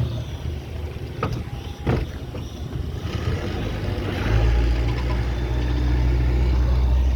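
Motorboat engine running with a steady low drone: it drops back at first, two short knocks sound in the first two seconds, then about four seconds in the engine note grows louder and holds steady.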